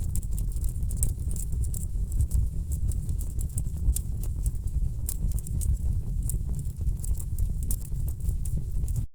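Wood fire in a fireplace crackling, with irregular sharp pops and snaps over a steady low rumble of burning logs. There is a split-second dropout near the end.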